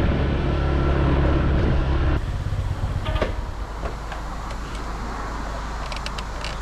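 Scooter running steadily while being ridden, with wind and road noise. About two seconds in the sound drops abruptly to a quieter, steady rumble.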